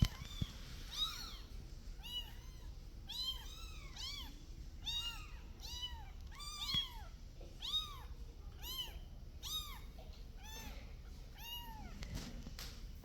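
Kitten meowing over and over: short, high-pitched mews that rise and fall in pitch, about one and a half a second.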